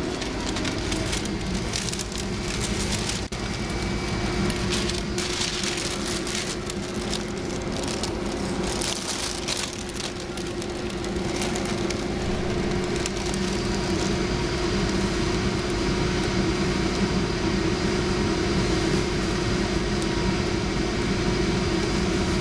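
Interior noise of a Centram low-floor city tram running: a steady motor hum with wheel-on-rail rattle, and a higher whine that joins about two-thirds of the way through.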